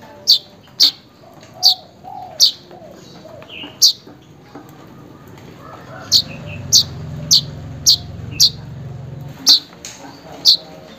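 Weaver bird (manyar) calling: a run of sharp, high chirps, each sliding quickly downward, coming about every half-second to second with a short pause midway. A low hum runs underneath from about six to nine and a half seconds in.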